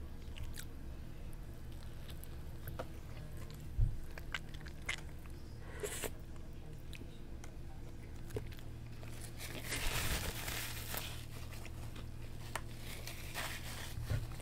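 A person chewing and biting food close to a microphone, with small scattered mouth clicks and a low thump about four seconds in.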